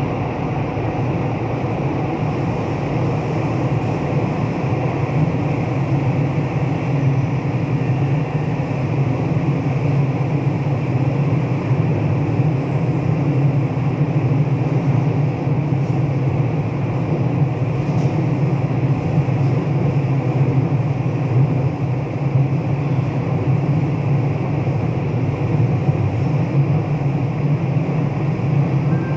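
Onboard running noise of a Taiwan Railway commuter EMU under way, heard at the right-hand door: a steady low rumble that holds level throughout.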